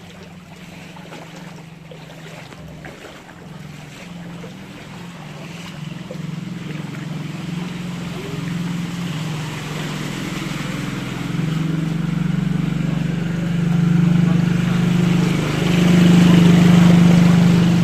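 A vehicle engine running through floodwater, growing steadily louder as it comes closer, over the rushing hiss of water pushed aside by the vehicle.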